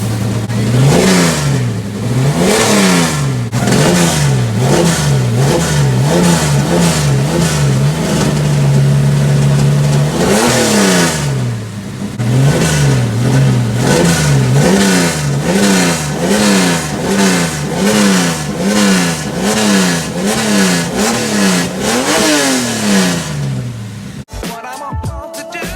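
A Chevrolet Opala's engine being revved over and over in quick blips, about one to one and a half a second. It holds a steady speed briefly, then goes to a higher rev about ten seconds in and again near the end. About a second and a half before the end it cuts to music.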